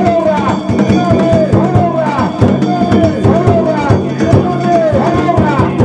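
Danjiri festival music: a drum struck in a fast steady rhythm with ringing metallic tones, and a pitched phrase that rises and falls over it and repeats roughly every second.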